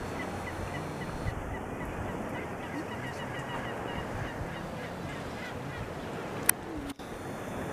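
Birds calling: a long run of short, evenly repeated calls over a steady background hiss.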